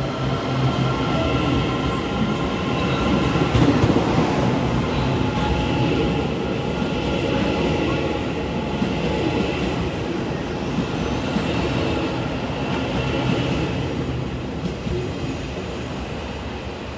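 Taiwan Railway train running past at a station, its wheels and running gear making a continuous rumble with a few steady tones above it. It is loudest about four seconds in and slowly fades away toward the end.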